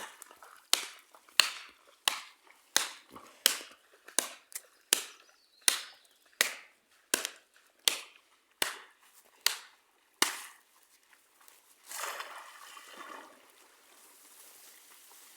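About fourteen sharp chopping strikes on wood at a steady pace, roughly three blows every two seconds, that stop about two-thirds of the way through. A brief rustle follows.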